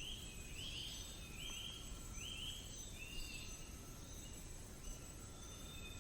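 Faint rainforest nature ambience: a short rising chirp repeated about every three-quarters of a second, growing fainter partway through. Under it runs a steady high-pitched insect drone and a low rumble.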